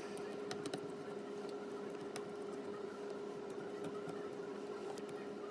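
Steady low electrical hum with faint, scattered small clicks and taps of small tools working on a phone.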